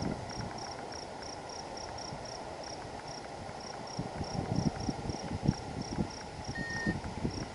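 A cricket chirping steadily outdoors, short high-pitched chirps about three to four a second. Irregular low thumps come in during the second half.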